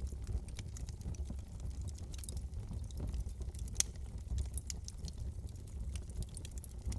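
Wood fire crackling in a fireplace: irregular sharp pops and snaps over a low steady rumble of the burning, with one louder pop about halfway through.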